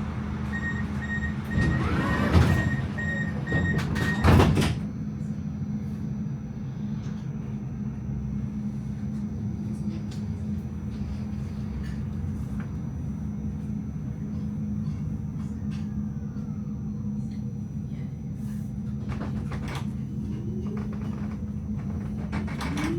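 Tram door warning beeps, then the doors sliding shut with two loud knocks in the first few seconds. A steady low hum follows. Near the end the traction motors start a rising whine as the tram pulls away.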